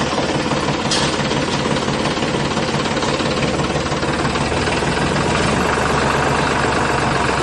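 Engine running steadily with a fast, even rattle, and a brief louder burst about a second in.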